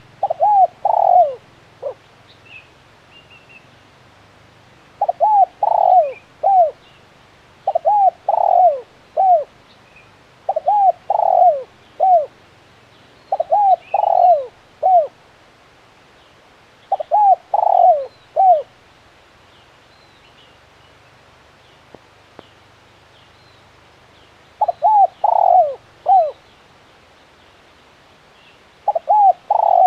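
Spotted dove cooing, repeating a phrase of four or five short coos about every three seconds, with a pause of several seconds past the middle. Faint chirps of small birds sound behind it.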